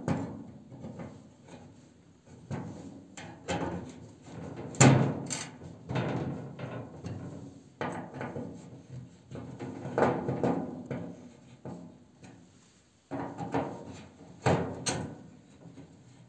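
Irregular knocks, clunks and scrapes as parts are fitted into a cast-iron stove, with two sharper bangs, about five seconds in and near the end.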